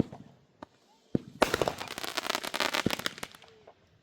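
Backyard consumer fireworks going off. A sharp bang at the start, then about a second in another bang followed by a rapid string of pops and crackles that dies away near three seconds.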